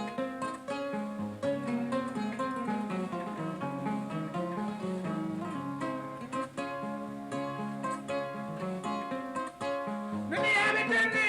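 Kora, the Mandinka 21-string harp-lute, played in a fast run of plucked notes over a repeating bass pattern. A voice begins singing over it near the end.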